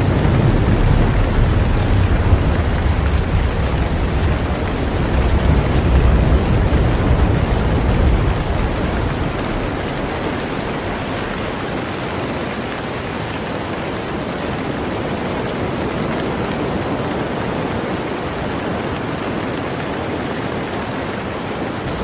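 Heavy rain falling on a boat, a steady hiss. A low rumble underneath for the first several seconds dies away about eight seconds in.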